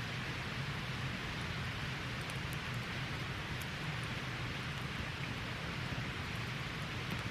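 Wood campfire burning with a steady hiss and a few faint crackles.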